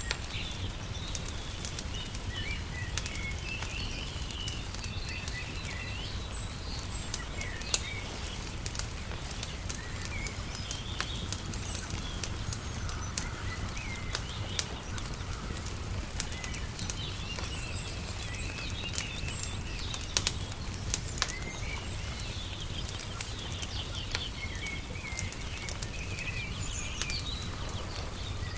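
Wood fire crackling, with scattered sharp pops, mixed with birds chirping and a steady low background rumble.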